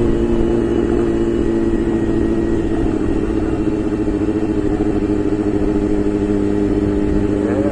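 Honda CBR600 F4i's inline-four engine running at steady revs while riding, with wind rumble on the microphone.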